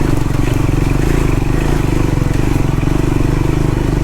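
Triumph Scrambler 400X's single-cylinder engine running steadily at low, even revs.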